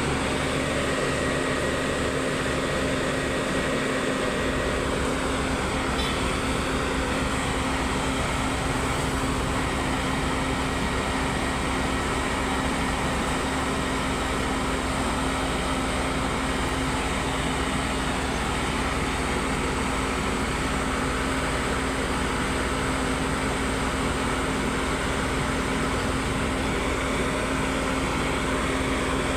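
Heavy diesel engine running steadily, with a constant low hum and even rumble throughout.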